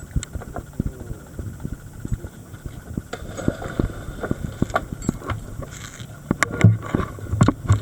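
Underwater camera audio: irregular sharp clicks and crackles over a low rumble, with a few louder low bursts near the end.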